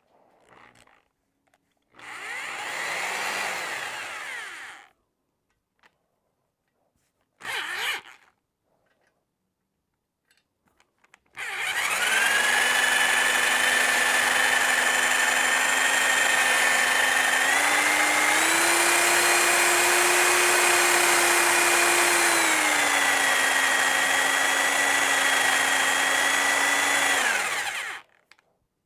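Drill spinning a stone cylinder hone in a Yamaha 250 outboard cylinder bore to work the bottom of the bore out to size. There are two short runs, then a long steady run of about sixteen seconds. The motor whine steps up in pitch partway through and back down before it stops.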